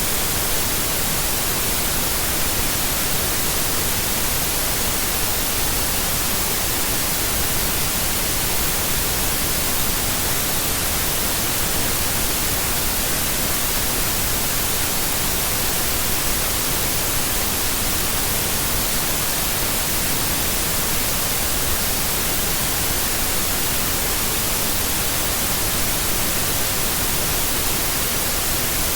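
Steady white noise: an even, unbroken hiss across the whole range, brightest in the highs.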